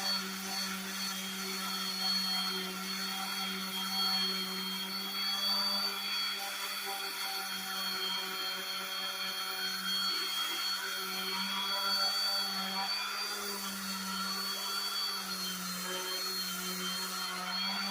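Electric power sander running steadily against wood, a constant motor hum with a thin high whine that wavers slightly in pitch.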